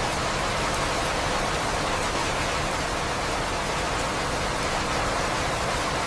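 Steady, even rain, a continuous hiss of falling rain with a few faint drop ticks.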